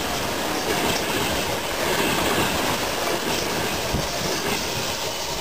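Electric passenger train passing at close range: a steady rush of wheels on rail and air along the carriages, with occasional clacks of wheels over the rail joints.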